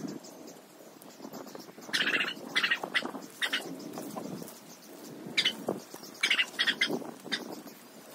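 Birds calling in short chirps, a quick cluster about two seconds in and another from about five to seven seconds in, over the steady rustle of dry grass and weeds being pulled up by hand.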